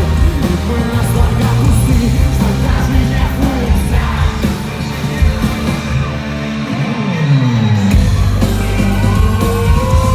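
Rock band playing live with a singer half-singing, half-shouting. About six seconds in the bass and drums drop out briefly under a falling slide, and the full band comes back in about two seconds later.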